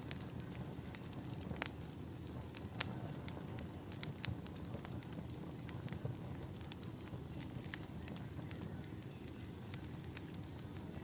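Wood fire crackling: a steady low rumble with scattered sharp pops and crackles every second or so.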